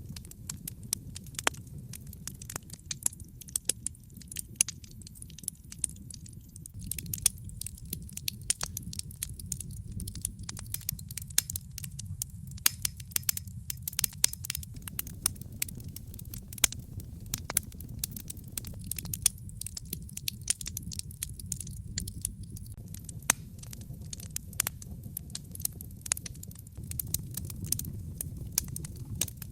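Wood fire in a fireplace crackling: many sharp snaps and pops, several a second and uneven in strength, over a low steady hiss of the burning.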